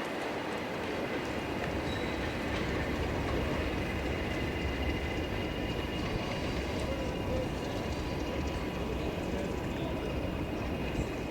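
Train running with a steady rumble, with faint steady high tones above it.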